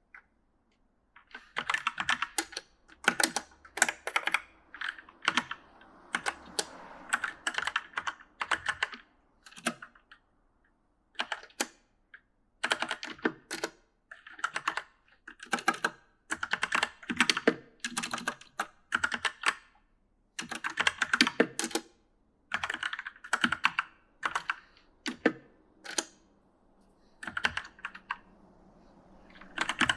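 Typing on an E-Element mechanical gaming keyboard: irregular runs of sharp key clicks in bursts, broken by short pauses.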